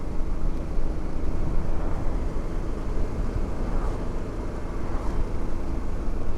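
Motorcycle engine running at a steady cruise with wind rushing over the helmet microphone, a constant low rumble.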